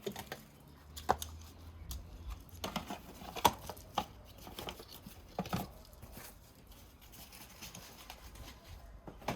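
Scattered clicks and knocks of hand work on plastic engine parts: an ignition coil and its connector being unplugged and pulled out. There are about half a dozen sharp clicks, the loudest about three and a half seconds in.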